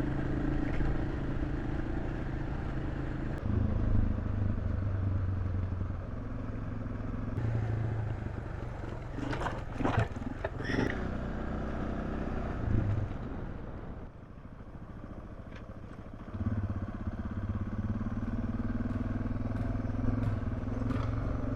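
Suzuki DR650's single-cylinder engine running as the motorcycle is ridden, its note stepping up and down with throttle and gear changes. It eases off for a couple of seconds about two-thirds of the way through, then picks up again; a few short knocks come in the middle.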